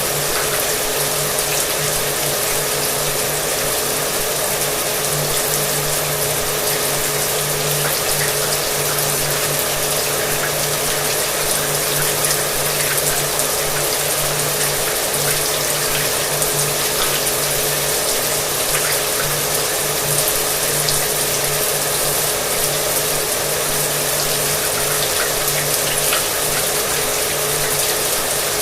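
Shower water spraying steadily with a hair dryer running underneath, its motor adding a steady low hum to the hiss of the water.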